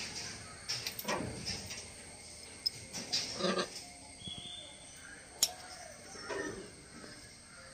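Macaw giving short, rough calls three or four times, with a sharp click about five and a half seconds in.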